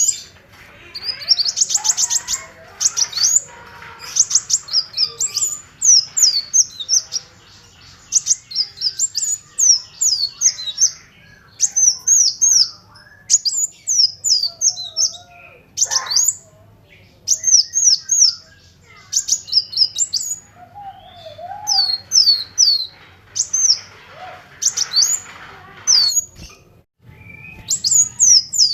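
Kolibri wulung sunbird singing in its rapid 'ngebren' style: phrase after phrase of high, thin, fast chirps and short trills, broken by brief pauses.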